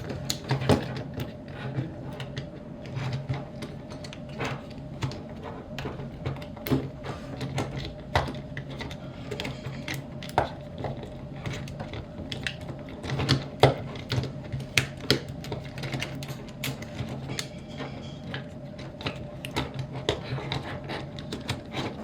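Plastic action figure (Transformers Sandstorm) being converted by hand from helicopter to robot mode: irregular clicks, snaps and ratcheting of its plastic joints and parts, over a steady low hum.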